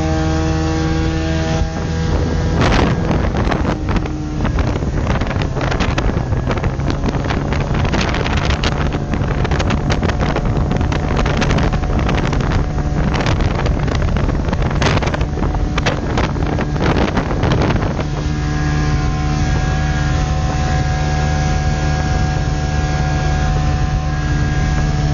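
Yamaha 60 hp two-stroke outboard motor running steadily, driving the small boat along. Heavy wind buffeting on the microphone through most of the middle, easing off for the last several seconds.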